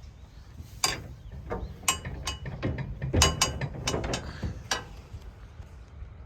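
A quick, irregular run of sharp metallic clicks and clanks, some ringing briefly, over a steady low rumble. It starts about a second in and stops after about four seconds.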